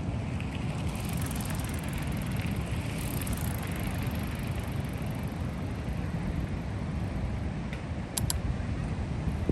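Wind buffeting the microphone of a camera riding on a moving bicycle: a steady, fluttering low rumble, with a couple of sharp clicks near the end.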